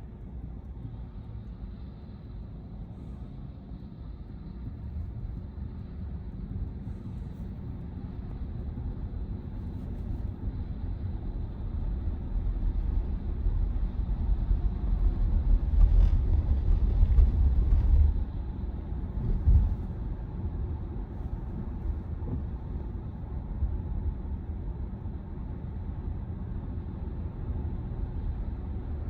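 Road and tyre rumble inside a Tesla Model Y's cabin as the electric car drives along. The rumble builds to its loudest about 16 to 18 seconds in, drops off suddenly, and a brief thump follows about a second and a half later.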